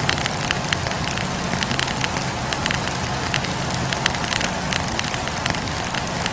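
Wood campfire crackling: many quick irregular pops and snaps from the burning logs over a steady low rumble of the flames.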